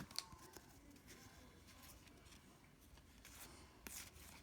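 Near silence with a few faint ticks of trading cards being handled, one at the start and a couple more about three to four seconds in.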